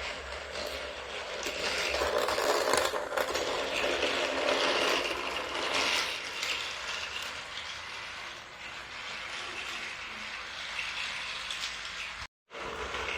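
Motorized Thomas & Friends Ashima toy engine running along its track, its small motor and gears making a steady whirring grind that is loudest in the first half. The sound cuts out for a moment near the end.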